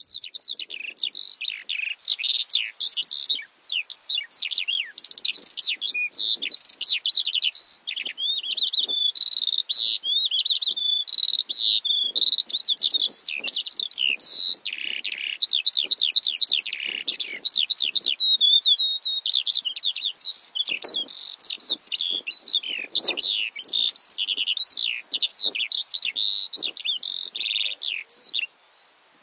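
Javan bush lark (branjangan) singing a fast, continuous song of varied chirps, trills and quick whistled notes, which starts and stops abruptly.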